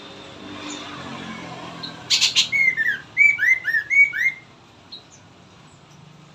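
Songbird calling: a short harsh rattle, then a quick run of about eight loud whistled notes that each slur downward, over a faint hiss.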